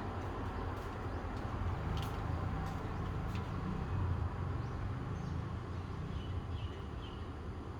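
Steady low rumble of outdoor background noise, like distant traffic or wind, with a few faint clicks and, near the end, several faint short high bird chirps.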